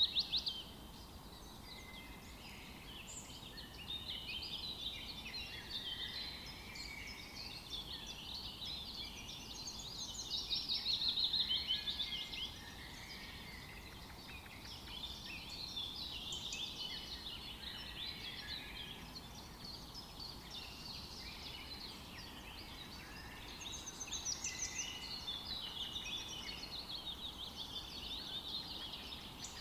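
Several songbirds singing at once in a forest dawn-chorus style, overlapping phrases and fast trills, with louder trilling bursts about ten seconds in and again near the end.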